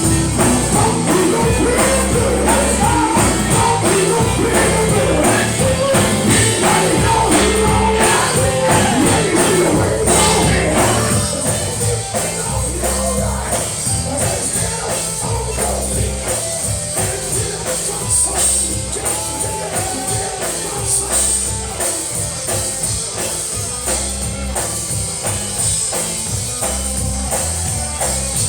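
Live gospel music: a band with a steady beat and a tambourine shaking throughout, with singing that stops about eleven seconds in, leaving the instruments playing on.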